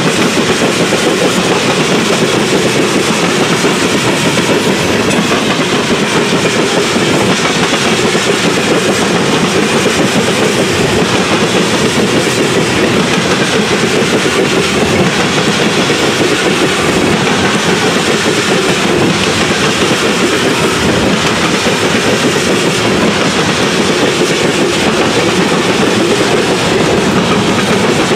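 Freight cars passing at close range: a loud, steady rumble of steel wheels on the rails, clattering as they roll over the road crossing.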